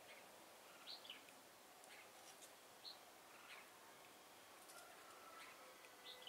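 Faint, short chirping calls of red-whiskered bulbuls: a handful of separate quick notes, spaced a second or more apart.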